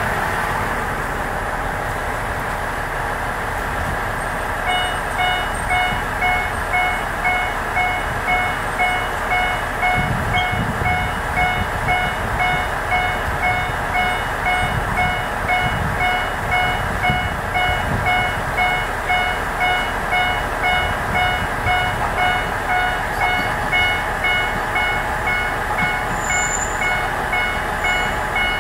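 A diesel railcar approaches along the track with its engine rumbling. From about five seconds in, a railroad crossing warning bell rings in a steady, repeating rhythm.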